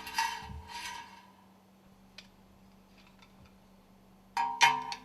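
Metal parts clinking and ringing: a couple of ringing clinks at the start, light ticks in the middle, and two louder ringing clinks near the end, over a faint steady hum.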